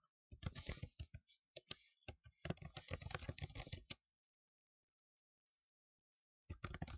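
Fast typing on a computer keyboard: rapid runs of sharp key clicks for about four seconds. The typing stops for a couple of seconds, then starts again near the end.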